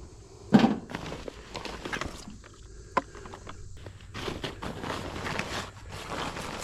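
Footsteps and scattered knocks and rustling on the ground, with a heavier thump about half a second in and a sharp click near three seconds.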